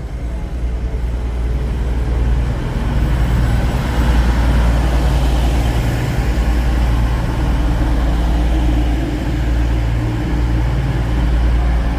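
Class 222 Meridian diesel multiple unit moving past the platform, its underfloor diesel engines running loud with a deep, steady rumble. The rumble builds over the first couple of seconds and then holds.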